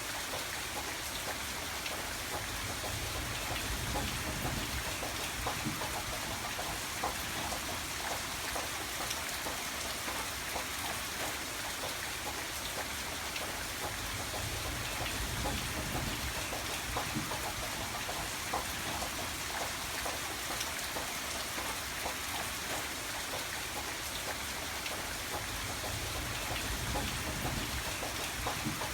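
Steady heavy rain, a constant hiss with many individual drops pattering on a surface, over a low rumble that swells and fades a few times.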